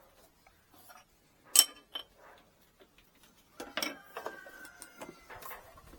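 Scattered sharp clicks and knocks, the loudest about one and a half seconds in and a cluster of them near the middle, with a faint thin tone for about a second after that.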